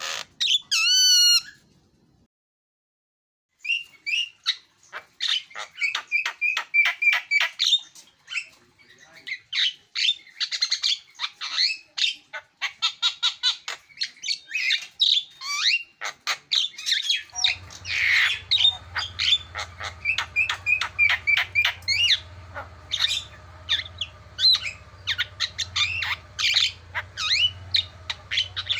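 Javan myna (jalak kebo) singing a fast run of chirps, squawks and whistles, with a brief pause about two seconds in. Past the middle a steady low hum starts under the song.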